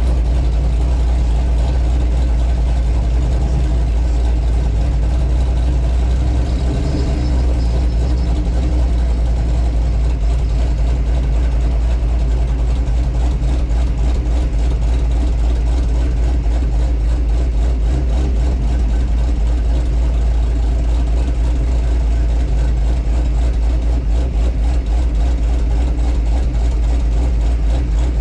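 V8 engine of a GMC Sierra pickup fitted with a Brian Tooley Racing stage 4 camshaft, running at low speed with a steady, deep exhaust rumble.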